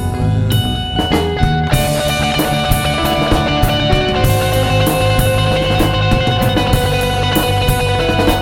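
Rock band playing an instrumental passage: electric guitars over a steady drum-kit beat, with no vocals.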